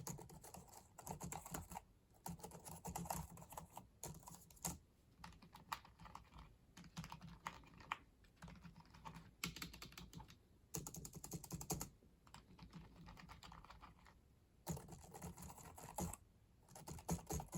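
Soft typing on slim 'silent' wireless keyboards, the Macally and the Walmart onn, in runs of rapid key clicks broken by short pauses. The Macally's keys are the louder, with a metal-spring sound in the back that the owner notices.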